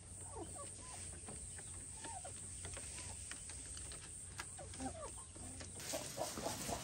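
Chickens clucking, with short scattered calls throughout. A louder rustling noise comes in near the end.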